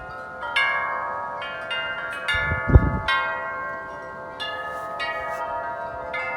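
Large tubular metal wind chime being struck repeatedly by the wind, about eight irregular clangs whose long ringing tones overlap. A short low thump comes about two and a half seconds in and is the loudest moment.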